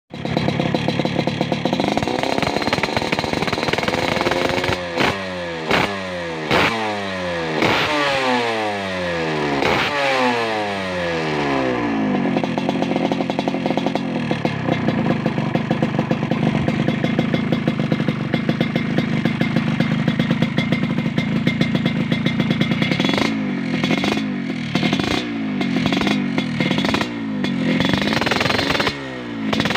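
Yamaha RX-King's single-cylinder two-stroke engine being revved through its exhaust. A rev climbs at the start, then comes a string of throttle blips that fall back, a steady idle through the middle, and more quick blips near the end.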